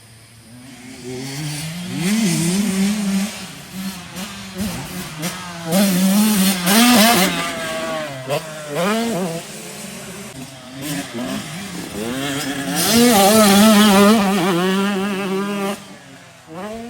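Motocross dirt bike engine revving hard around a track, its pitch repeatedly climbing and dropping as the rider opens the throttle and shifts. It starts faint and grows louder as the bike comes near, with the loudest passes about two, seven and thirteen seconds in.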